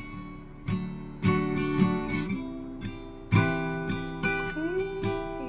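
Acoustic guitar played in a fingerpicked verse pattern, single plucked notes broken by short strummed chords, with a note sliding up in pitch near the end.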